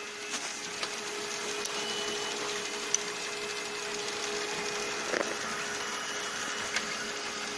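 Lexmark X364dn laser printer running, a steady mechanical whir with a constant hum and a few light clicks.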